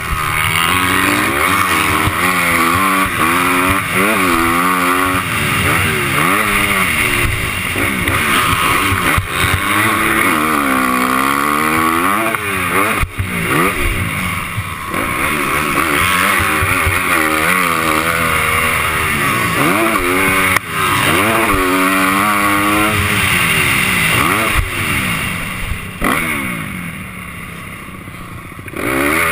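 Honda 250 motocross bike engine revving hard, over and over, its pitch climbing and falling with each burst of throttle through the gears, heard from a camera mounted on the bike. Near the end it drops to a quieter, lower run before picking up again.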